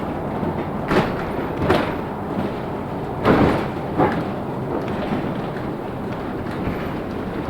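Cabin noise of a LiAZ-6213 articulated city bus on the move: a steady rumble broken by four thuds and knocks from the body, the loudest a little past halfway.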